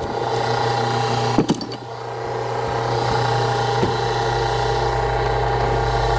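Engine driving a hydraulic log splitter, running steadily with a couple of sharp knocks. About two seconds in the sound dips briefly, then the low part of the engine note swells and stays heavier as the splitter works under load.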